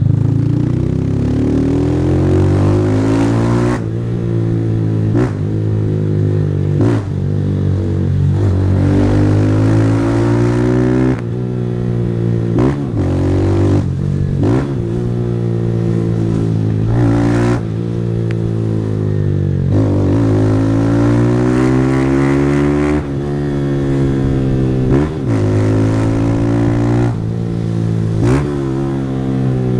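Single-cylinder 160 cc motorcycle with an aftermarket Fortuna Trioval exhaust, accelerating hard through the gears. The engine note rises in pitch, then drops sharply at each shift, many times over.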